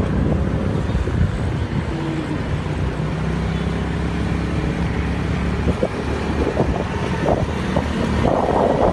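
A motor vehicle's engine running steadily, with wind rushing over the microphone and a few knocks about six to eight seconds in.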